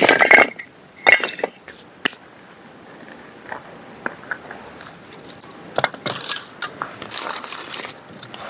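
Irregular crunching and cracking. The loudest burst comes right at the start, another about a second in, and a busier cluster around six to seven seconds in.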